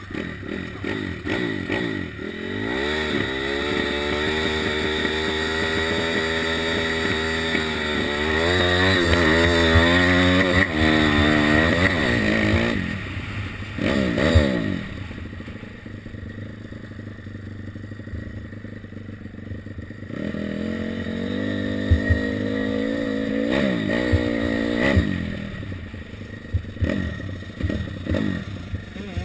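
Beta 150cc four-stroke pit bike engine accelerating hard through the gears, its pitch climbing and then dropping back at each shift. About halfway through it falls to a low, steady run, then picks up again with short bursts of throttle near the end.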